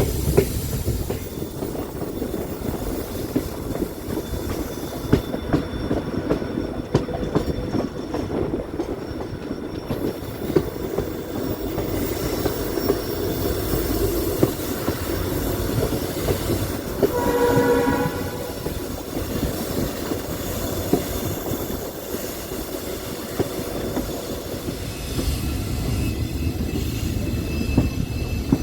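Passenger train running on the rails, a steady rattling noise dotted with irregular clicks from the wheels and carriages. About two-thirds of the way through, the locomotive horn sounds once for about a second.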